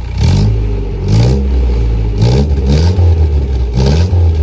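Datsun 1400 four-cylinder engine running, its throttle blipped about five times in quick rises of revs that fall back each time.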